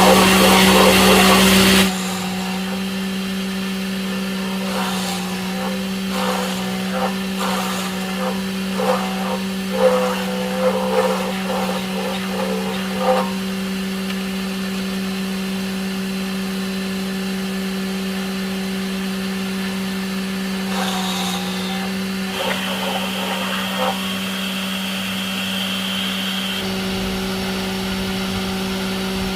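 A machine running with a steady hum, louder and harsher for the first two seconds, then settling to an even drone with scattered light knocks and clicks of work over it.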